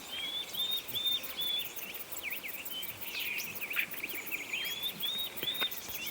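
A songbird singing: a short arched whistled note repeated about four times at the start and three times near the end, with quicker twittering in between.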